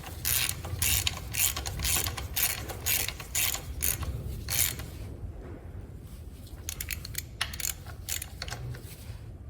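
Ratchet wrench clicking as a bolt is wound in, in strokes about two a second, then a quieter stretch and a quick run of clicks near the end.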